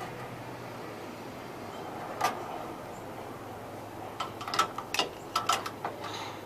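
Sharp clicks and knocks from hand work: a single one about two seconds in, then a quick cluster of them near the end, over a faint steady hum.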